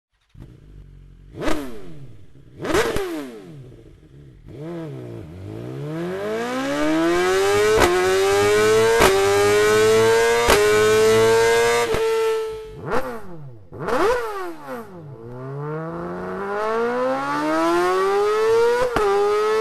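Superbike engine through an Akrapovic aftermarket exhaust: two sharp throttle blips, then the revs climb hard for several seconds with a short crack at each gear change, fall away, two more blips, and climb again.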